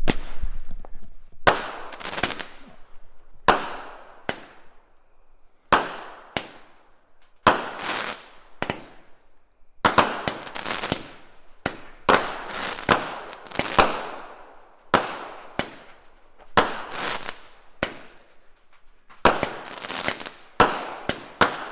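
A 16-shot consumer firework cake firing in a rapid series of sharp bangs, one every half second to two seconds, each with a fading tail, as its shots launch and break overhead.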